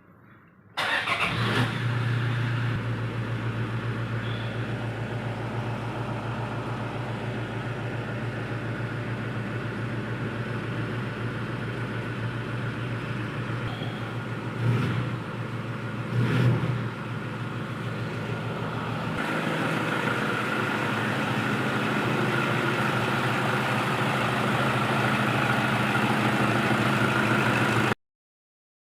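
Toyota Fortuner's engine catching about a second in and then running steadily, after a crank-no-start fault: it now starts. Two short revs come about halfway through, and a higher steady hum joins soon after; the sound cuts off suddenly near the end.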